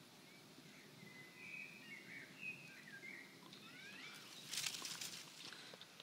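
A small bird singing short, warbling chirps, followed about four and a half seconds in by a brief crunching rustle of footsteps on dry ground.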